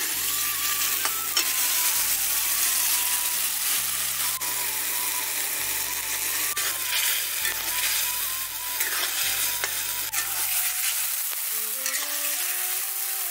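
Potato pieces and wet ground masala sizzling in a hot kadhai over a wood fire, stirred with a metal spatula that now and then ticks and scrapes against the pan.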